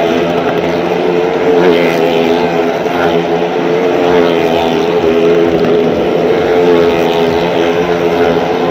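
Motorcycle engines running at steady high revs as the riders circle the wall of death, a loud continuous drone whose pitch wavers slightly.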